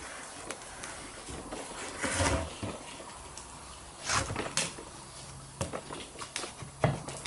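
Irregular knocks and scrapes as the extension housing of a Toyota T50 gearbox is worked loose. There is a longer scraping sound about two seconds in, a couple of sharper knocks about four seconds in, and a run of lighter clicks near the end.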